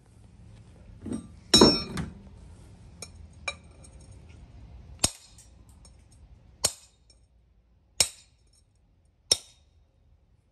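A series of sharp, ringing clinks of hard objects striking. There is a loud cluster of knocks about one and a half seconds in, a couple of lighter ones, then four single clinks evenly spaced a little over a second apart.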